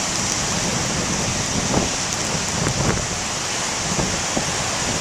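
Big ocean waves breaking on the shore as a steady rush of noise, with wind blowing across the plastic-wrapped camcorder microphone.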